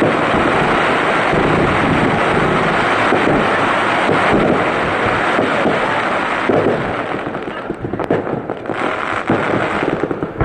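Fireworks display: a dense, continuous barrage of bursting shells and crackle, easing slightly near the end.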